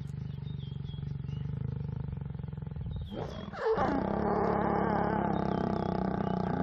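Lions mating: a low, pulsing growl, then about three and a half seconds in a loud, drawn-out growling roar with a rich pitched tone.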